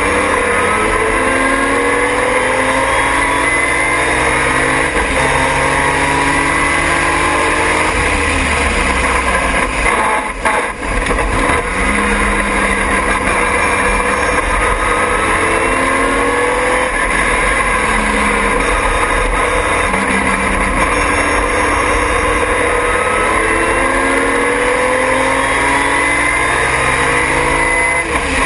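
Triumph TR6 race car's straight-six engine at full throttle, its pitch climbing through each gear and dropping back at every upshift, with a short lift off the throttle about ten seconds in.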